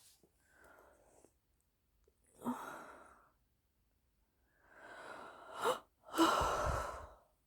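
A woman breathing heavily through about four breaths or sighs, the last one the loudest.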